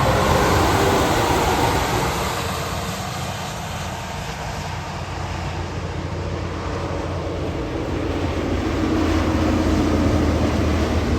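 Heavy trucks passing on a wet highway: a loud hiss of tyres on water over a low diesel engine drone. One truck passes just after the start, and another builds up toward the end.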